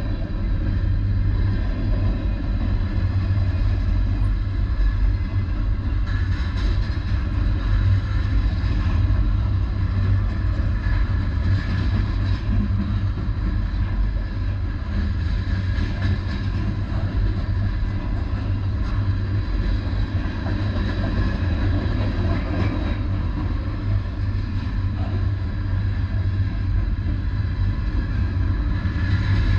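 Steady low rumble of a train rolling past, holding at one level without let-up.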